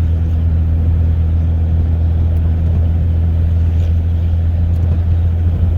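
1995 Ford F-150's 4.9-litre inline-six running through a straight-piped 2.5-inch exhaust, a steady low drone at an unchanging engine speed as the truck is driven, heard from inside the cab.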